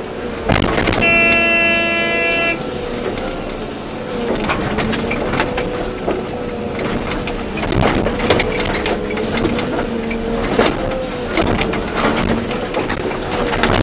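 Volvo EC240B excavator at work loading soil: engine and hydraulics running steadily under load, with knocks and scrapes of soil and stones in the bucket. A horn sounds once, about a second in, for about a second and a half.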